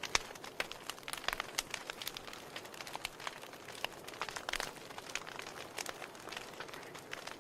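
Wood fire crackling in a fireplace: irregular sharp pops and snaps of burning logs over a soft hiss of flame.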